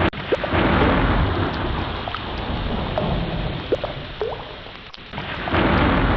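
Ocean ambience: a rushing wash of sea water with a deep rumble, swelling strongly just after the start and again about five seconds in. Short rising chirps and a few sharp clicks sound over it.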